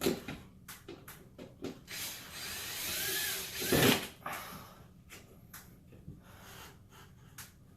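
A power drill runs for about a second and a half, driving a screw against the sheet-metal register box, which it struggles to get through without a pilot hole. Knocks and clicks of handling come before it, and a loud knock follows just after.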